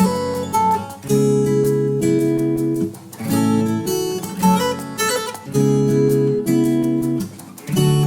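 Background music: acoustic guitar strumming chords, with new chords struck about every two seconds.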